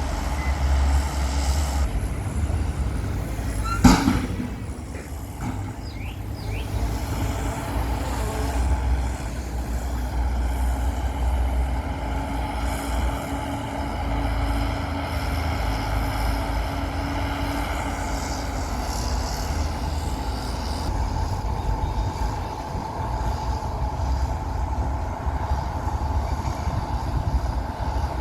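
Heavy diesel earthmoving machinery running with a steady low rumble, with one sharp bang about four seconds in.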